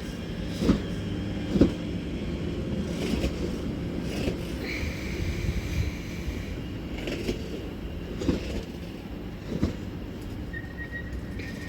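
A doubled-up Class 730 Aventra electric multiple unit running slowly into the platform. It makes a steady low rumble, with irregular knocks from the wheels over the rails and two brief high-pitched squeals.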